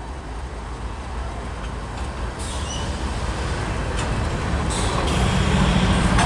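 Freight train led by a diesel locomotive rumbling past, growing steadily louder as it nears, with a low engine hum coming in near the end. A brief high squeal sounds about two and a half seconds in.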